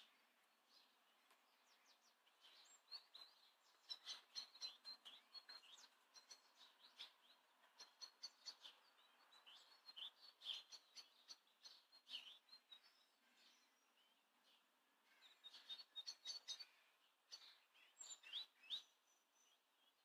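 Small birds chirping faintly, with short, high notes that come in quick runs and pause between runs.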